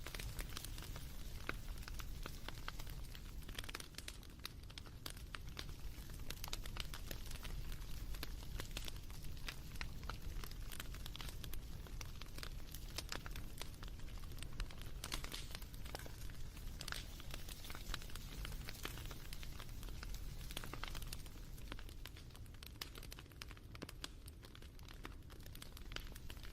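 Wood fire crackling, with many irregular sharp pops and snaps over a low steady rumble.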